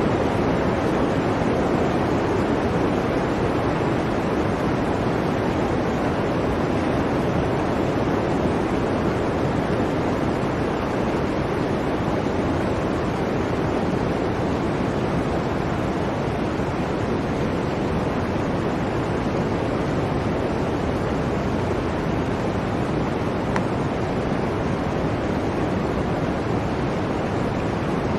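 Blizzard wind: a steady, even rushing noise with no gusts or breaks, strongest in the low-middle range.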